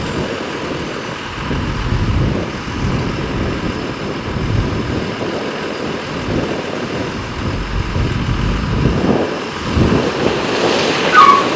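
Heavy earthmoving machinery running at a rock fill site, a low diesel rumble that surges unevenly. About eleven seconds in comes a short high squeal and a louder clatter.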